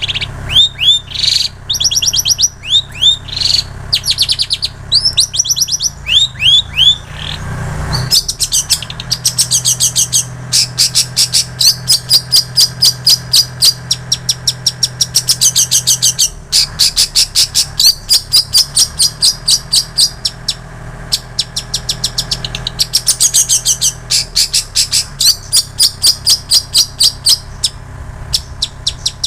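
Long-tailed shrike (cendet) singing a loud, continuous song of mimicked calls of the prinia and the canary. It opens with clusters of sharp falling chirps, then breaks into long, rapid chattering trills.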